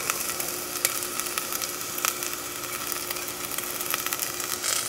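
Chopped onion and garlic sizzling in hot olive oil in a pot, a steady hiss with scattered small pops.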